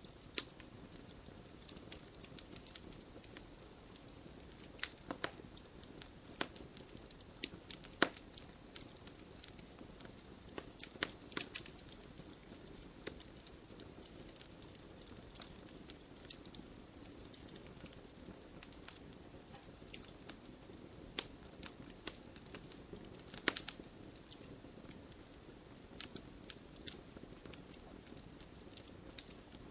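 Wood fire burning in a fireplace: a soft steady rush of flames with frequent sharp, irregular crackles and pops, a few louder snaps among them.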